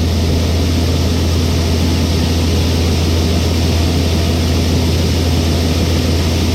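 Grain truck's engine running steadily at low speed with a deep, unbroken drone as the loaded truck is eased slowly into a tight space.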